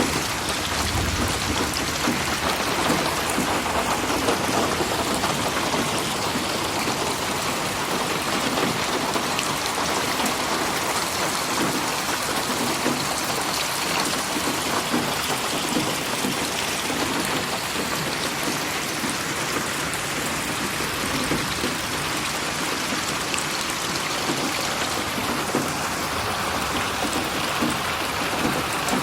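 Steady rain falling, a dense even patter of drops on surfaces, with a brief low rumble about a second in.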